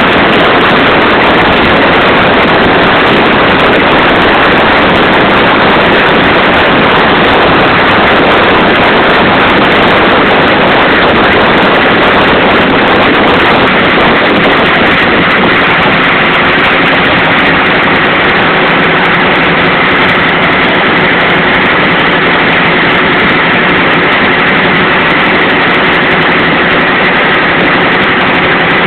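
Engine of a boat under way, running steadily under a loud, even rush of noise, with faint steady whining tones coming in about halfway through.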